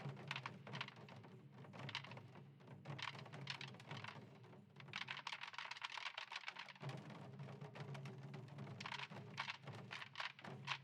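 Korean samul-nanta percussion ensemble drumming: a dense stream of rapid, sharp drum strikes, faint and distant.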